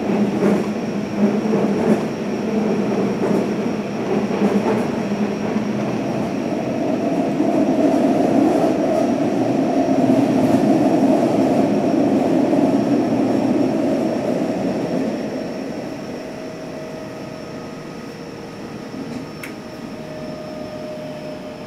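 Hanshin 1000 series electric train running, heard from inside the passenger car: a steady rumble of wheels on rails that swells to its loudest about halfway through, then eases off. A faint high whine runs throughout, and there are a couple of sharp clicks in the first two seconds.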